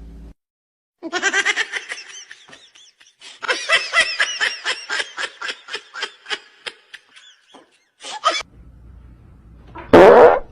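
High-pitched laughter in quick repeated bursts, about four or five a second, rising and then trailing off. A short loud sound comes near the end.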